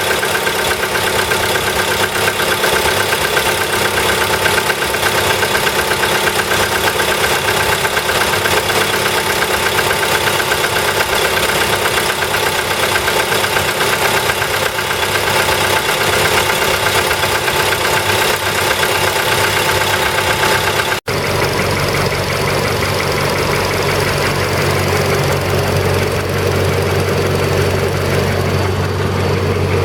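Volkswagen CFN 1.6-litre four-cylinder petrol engine idling with a knocking noise. About two-thirds of the way through, the sound cuts out for an instant and comes back deeper, with less treble.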